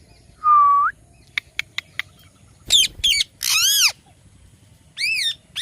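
Indian ringneck parakeet calling: a short whistled note with an upturn at its end, a few sharp clicks, then a run of harsh screeching calls that arch up and fall in pitch.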